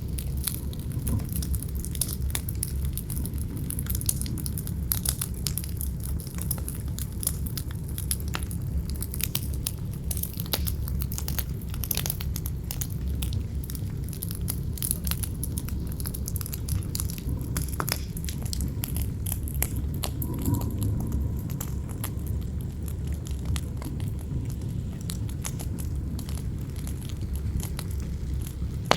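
Wood fire crackling with frequent sharp snaps and pops over a steady low wind rumble.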